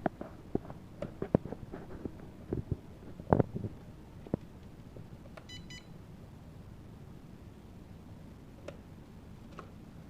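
Small drone being handled: several plastic clicks and knocks, then a quick run of short high electronic beeps about five and a half seconds in, and two faint clicks near the end.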